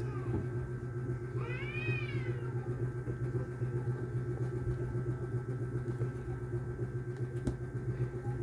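A cat meowing once, one rising-then-falling call about two seconds in, over a steady low hum.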